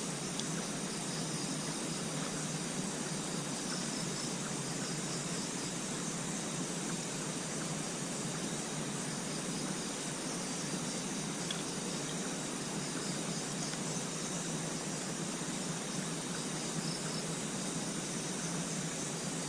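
Insects chirring steadily, a high continuous trill with faint pulsing, over a constant even hiss.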